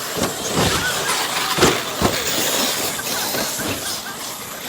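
Several large 8S electric RC monster trucks racing, their brushless motors whining up and down in pitch, with repeated thuds of trucks landing and hitting, the loudest about a second and a half in.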